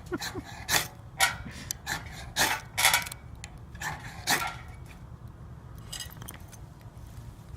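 Fire starter rod struck again and again with a steel scraper to light tissue-paper tinder: about seven quick, sharp scrapes in the first four and a half seconds, then it goes quiet.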